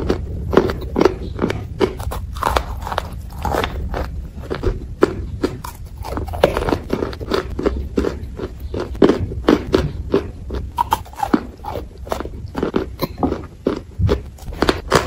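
Chalk and clay blocks being bitten and chewed: soft, dry crunches and crumbling in quick, irregular succession.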